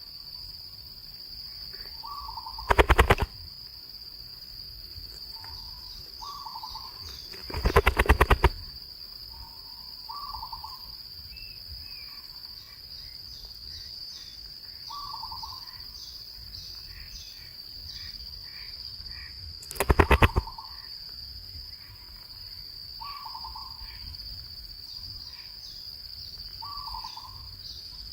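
Outdoor nature ambience: a steady high-pitched insect drone, a short bird call repeated every four seconds or so, and three loud bursts of rapid rattling, about a second each.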